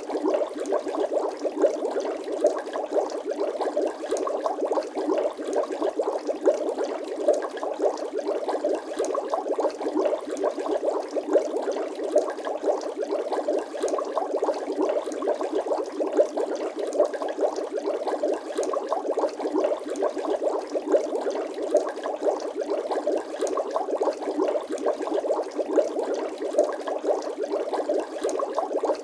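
Looped bubbling sound effect: a continuous dense stream of small bubble pops and gurgles in liquid, with no bass.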